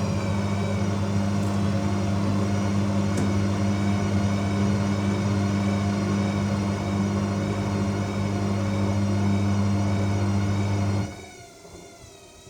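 AEG 7000 Series front-loading washing machine spinning during its final spin: a loud steady motor hum with a wavering whine above it. About eleven seconds in the hum cuts off suddenly, leaving a much quieter wavering whine as the drive drops out of the spin.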